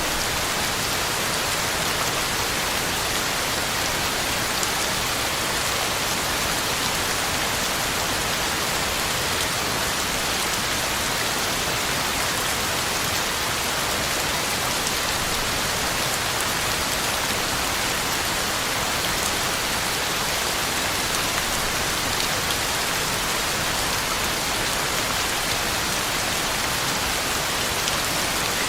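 Heavy rain falling steadily on the ground and leaves, an even hiss with faint scattered drop patter.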